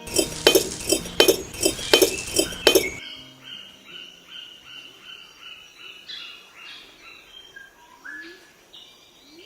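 About seven sharp, ringing clinks in quick succession, which stop abruptly after about three seconds. Softer bird chirping follows, a run of short repeated calls.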